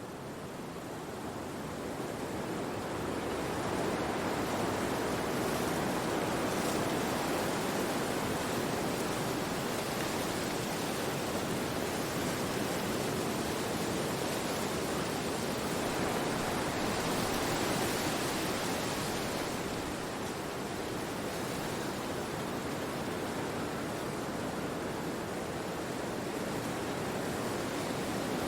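Wind blowing through forest trees: a steady rushing of leaves and branches that builds over the first few seconds, with a stronger, hissier gust about two-thirds of the way through.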